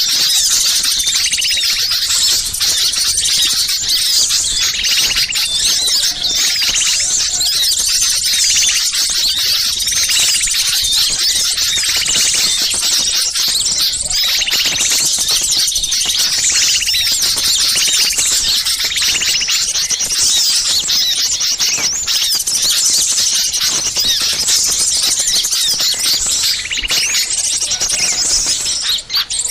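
A dense chorus of many small songbirds chattering and twittering at once, high-pitched and without a break. This is a bird-lure (pikat) recording of agitated small-bird calls, meant to draw wild small birds in.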